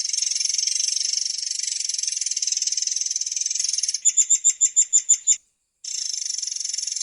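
Long-tailed sibia (murai air) singing its long, rapid, high-pitched rolling trill. About four seconds in it breaks into a run of around ten loud, separate notes, about seven a second. After a half-second gap the trill starts again.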